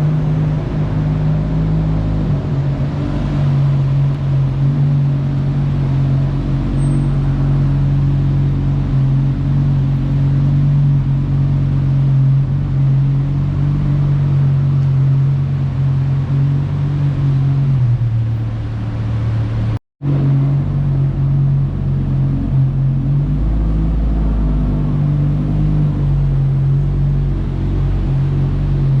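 Car engine idling steadily with a deep, even drone. The sound drops out for an instant about two-thirds of the way through.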